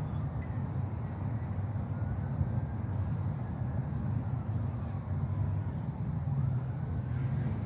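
Steady low rumble of distant traffic, with a faint siren wailing slowly up and down.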